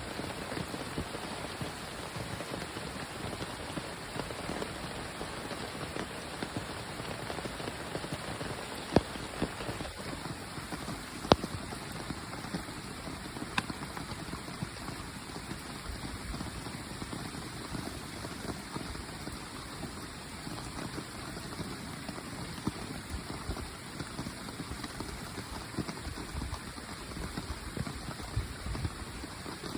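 Steady rain falling, an even hiss of drops with scattered louder single drips, the sharpest about 9, 11 and 13 seconds in.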